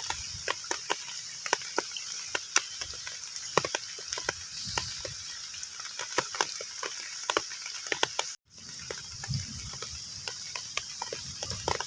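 Heavy rain falling on still water: a steady hiss with many separate, irregular drop plinks on the surface. The sound cuts out for a split second about eight seconds in.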